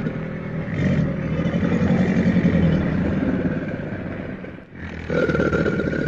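Crocodile growling low and continuously, a rough pulsing growl with a short break near the end.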